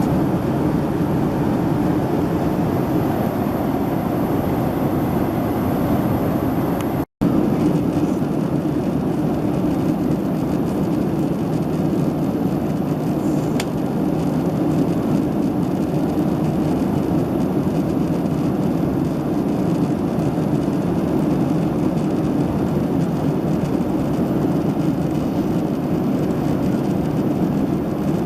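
Steady cabin noise of a Boeing 767-300ER in flight: an even, deep rushing drone of engines and airflow. It drops out for an instant about seven seconds in, then carries on unchanged.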